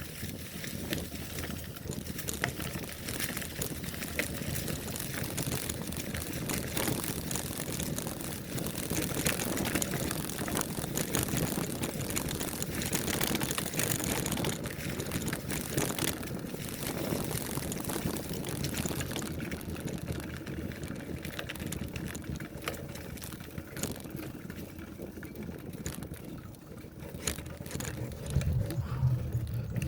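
Bicycle rolling along a dirt trail: steady tyre noise over the ground with frequent small clicks and rattles from the bike.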